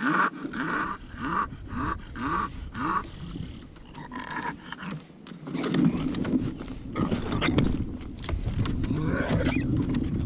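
A bulldog panting in quick, rhythmic breaths, about two to three a second. From about six seconds in, louder irregular noise with sharp clicks and knocks takes over.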